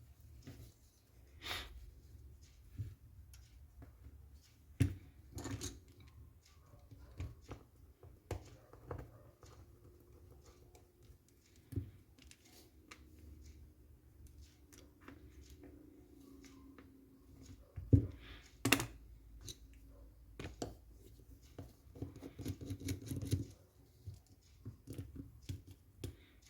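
Irregular clicks, taps and knocks of small hard parts and tools being handled, typical of airsoft rifle parts being worked on at a bench. One sharp knock about two-thirds of the way in is the loudest, and there is a quick run of clicks near the end.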